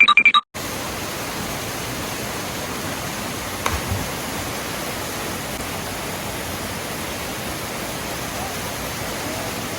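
Steady rush of a waterfall and river current, an even hiss with no change, with a small bump about four seconds in. A few short electronic beeps at the very start cut off into a brief gap before the water sound.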